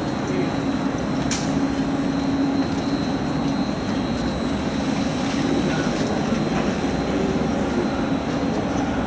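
Steady mechanical hum and drone of electric trains standing at a station platform, with low tones that hold level throughout.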